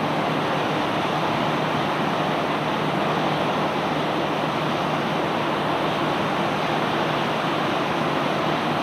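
Unloading machinery running steadily: an even rushing noise over a low engine hum, with no separate knocks or clatter.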